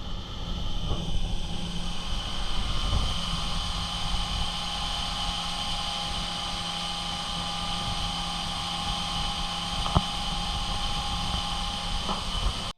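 Homemade metal-melting furnace running with its air blower on: a steady roar with a held high whine, and one sharp click about ten seconds in.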